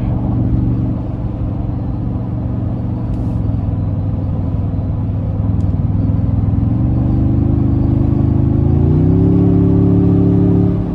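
Toyota Tundra's 3.4-litre twin-turbo V6 hybrid powertrain heard from inside the cab, running steadily and then climbing in revs in two steps about two-thirds of the way through and holding at the higher pitch.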